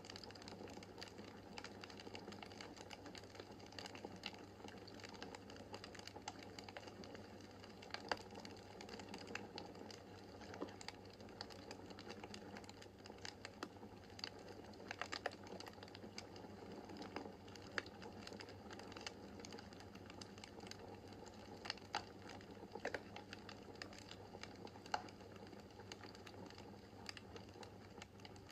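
Wood fire burning in a fireplace: a soft steady hiss of flames with irregular sharp crackles and pops from the burning logs.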